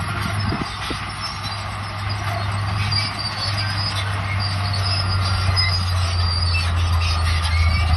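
Bulldozer's diesel engine running steadily while its steel crawler tracks squeal in short, high-pitched bursts.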